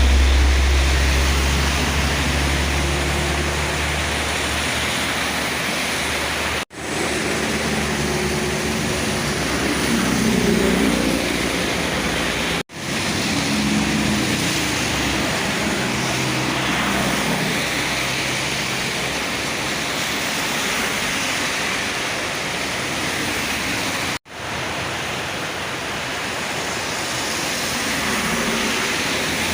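Heavy rain hissing with passing trucks' engines and tyres swishing on the wet road, a loud engine drone at first. The sound cuts off abruptly three times.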